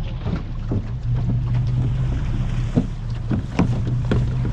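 Motor boat engine running steadily under way, with irregular knocks and wind on the microphone.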